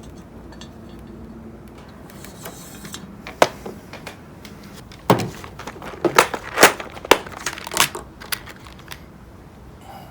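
Small metal fan parts being handled and screwed together: a scatter of sharp clicks and clinks, one a little over three seconds in and a quick cluster from about five to eight seconds in.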